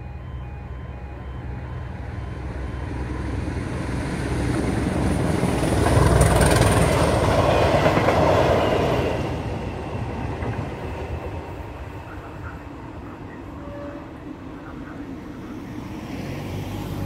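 A train passing over a level crossing: its rumble and wheel noise build to their loudest about six to nine seconds in, then fade.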